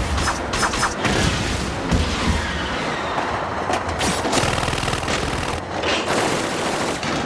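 Rapid gunfire and booms, many shots in quick succession over a continuous low rumble.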